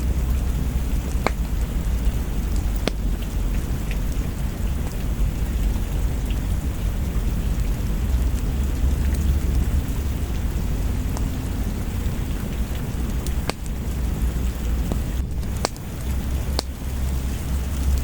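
Steady rain over a continuous deep rumble, with a few sharp pops of a wood fire crackling now and then.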